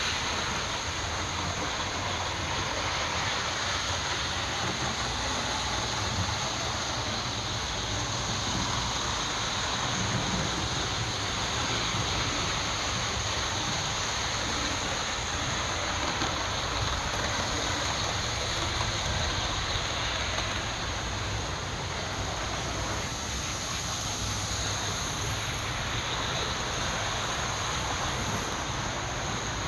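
Model passenger trains running on layout track: a steady rumble and hiss of wheels and motors that stays even throughout.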